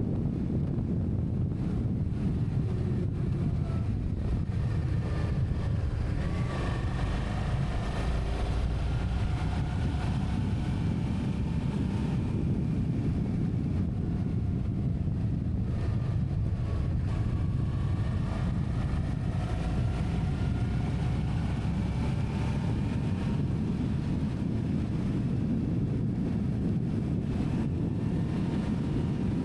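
A vehicle engine running under way with wind rumble on the microphone. Its pitch rises and falls slowly.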